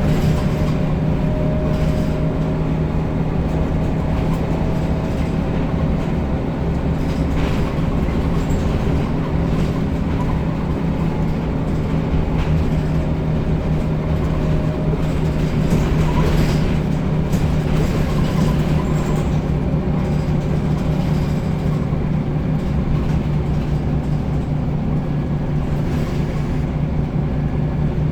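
Scania L94UB single-deck bus running steadily under way, a constant low engine hum with a few faint knocks.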